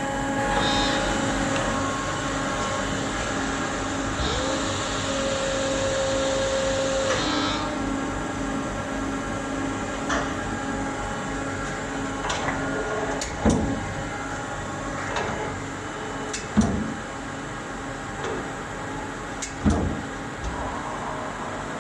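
Gildemeister CT 60 CNC lathe running with a steady machine hum; about four seconds in a whine rises and holds for about three seconds, then stops. Three sharp knocks come in the second half.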